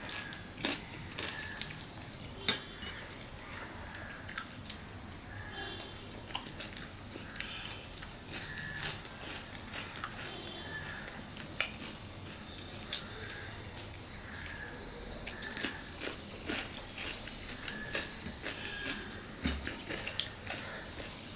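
Close-up mouth sounds of a man chewing and biting mouthfuls of tandoori roti with mutton curry and cucumber, with frequent small wet clicks and occasional light tapping of fingers on the plate; one sharper click about two and a half seconds in.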